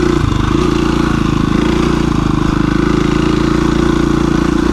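2017 KTM 350 EXC-F dual-sport motorcycle's single-cylinder four-stroke engine running steadily under the rider, with a brief dip in revs just after the start.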